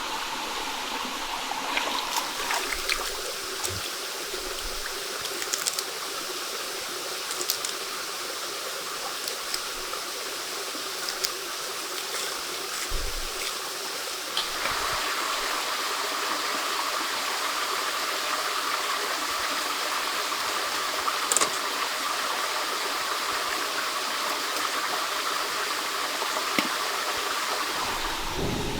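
Running water, a steady rushing with scattered small clicks, getting a little louder about halfway through.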